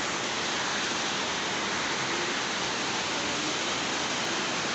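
Heavy rain falling: a steady, even hiss that holds at one level without letting up.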